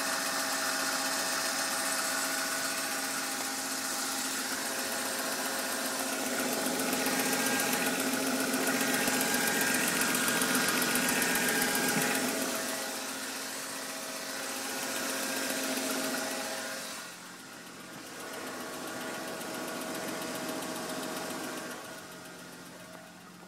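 BMW M52 straight-six engine running steadily, with a strange noise: several steady whining tones over a hiss. The sound gets quieter about 17 seconds in.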